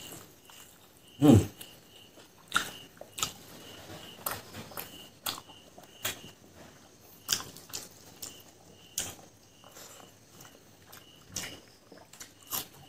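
A person biting and chewing fried pork leg, with sharp wet smacks and clicks from the mouth about once a second. About a second in there is one loud, short mouth noise that drops in pitch.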